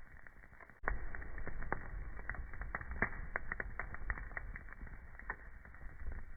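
Wood fire burning in a fireplace, crackling with many irregular sharp pops over a low rumble. It becomes suddenly louder about a second in.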